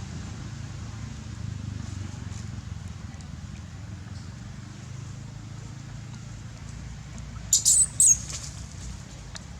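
Baby macaque monkey crying: three short, very high-pitched squeals close together about three-quarters of the way in, over a steady low background rumble.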